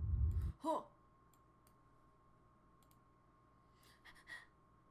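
A breathy sigh into the microphone, a short 'oh', then a quiet room with a few soft clicks about four seconds in.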